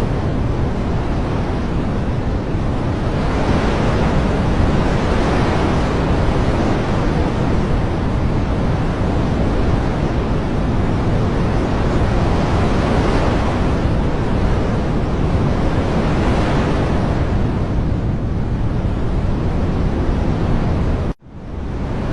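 Dense, steady rushing noise from a nature-ambience recording, swelling and easing every few seconds. It cuts out for a split second near the end and fades back in.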